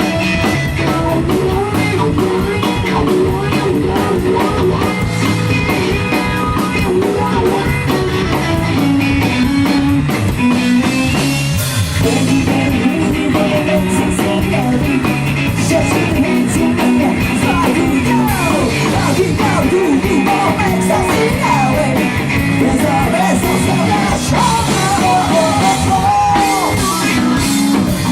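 A rock band playing live: electric guitar, bass and drums, with a melodic line over them that may be singing or a lead guitar.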